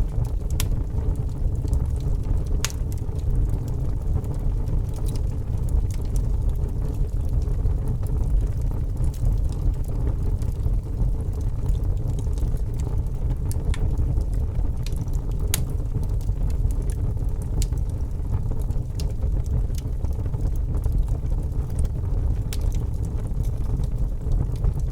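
Logs burning in a fireplace: a steady low rumble of the fire with scattered sharp crackles and pops, a few of them louder than the rest.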